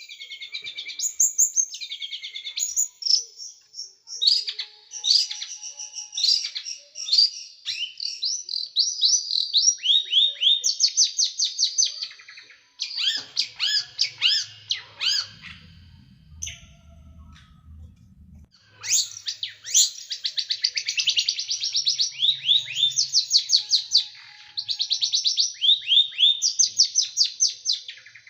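A small songbird singing rapid, sharp 'shooting' phrases of quick down-slurred notes, many per second. The song breaks off for about three seconds roughly halfway through, with a faint low hum in the gap, then starts again.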